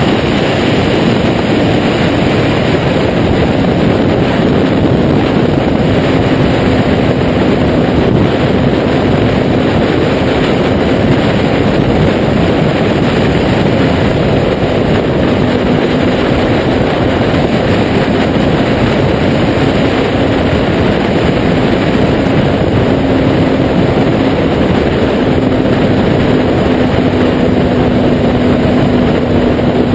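Kawasaki Z800's inline-four engine through a Taylor Made Firetong aftermarket exhaust, running at a fairly steady engine speed while riding, under a loud, even rush of noise.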